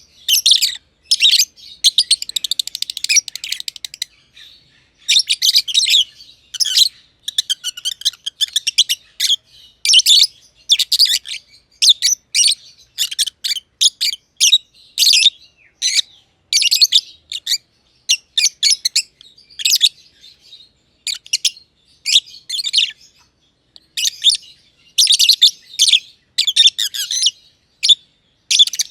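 Black-masked lovebirds chirping in short, high-pitched bursts about a second apart, with a run of rapid chattering a couple of seconds in.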